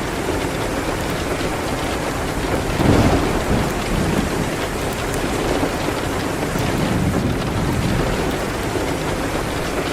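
Steady heavy rain hitting a window, with a brief louder low rumble about three seconds in.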